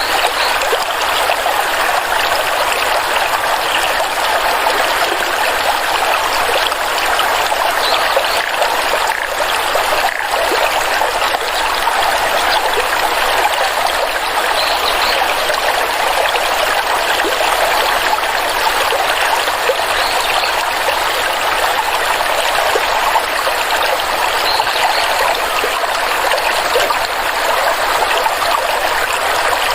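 Flowing stream of water babbling and trickling steadily.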